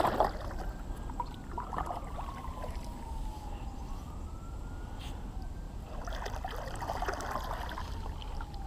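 Faint wail of a distant emergency-vehicle siren, its pitch sliding slowly down and back up, about twice.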